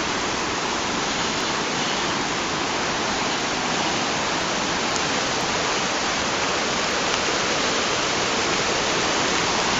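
River in flood from hurricane rains, its water rushing past in a steady, unbroken roar of noise.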